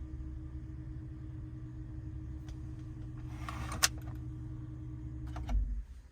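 BMW 760Li's V12 engine idling with a steady low hum, broken by a short hiss and a sharp click a little past halfway and a couple of clicks shortly after. About five and a half seconds in a low thump comes and the engine hum runs down and stops, as when the engine is switched off.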